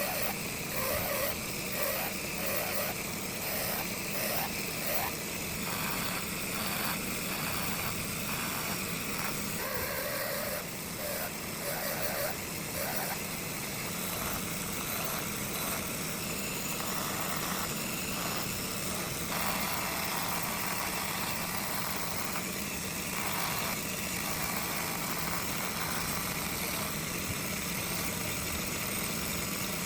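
A workshop power tool motor running steadily. For roughly the first half, metal is worked against it in quick repeated strokes, about two to three a second; after that the running evens out.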